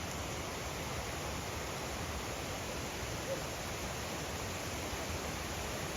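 Steady rushing of a snowmelt-fed waterfall and stream, an even hiss with no breaks or changes.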